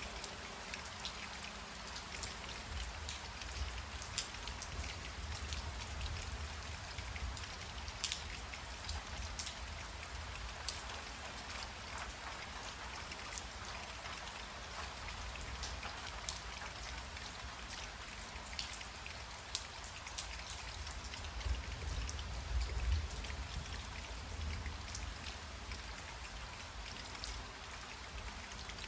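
Steady rain falling, with many distinct close drops ticking over an even hiss. A low rumble swells a few seconds in and again about three quarters of the way through.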